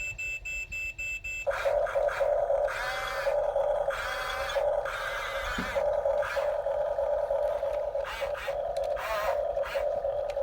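Small electric drive motor and plastic gearbox of a Huina 1569 RC bulldozer whining steadily. Wavering higher sounds come and go over it after the first second or two.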